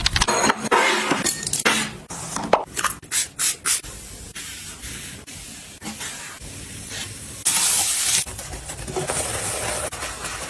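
Household items being handled while cleaning a kitchen: a quick run of clicks and knocks, then quieter rustling, and a short hiss of spraying about halfway through.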